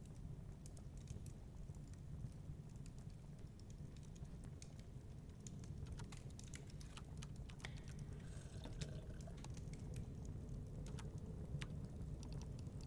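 Wood fire crackling, with irregular sharp pops and snaps, over a steady low rumble of storm wind.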